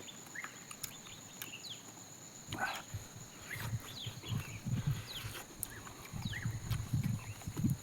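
Close chewing and mouth sounds of someone eating a fried chicken leg, coming in uneven bursts from about halfway through, over many short high bird chirps and a steady high-pitched whine.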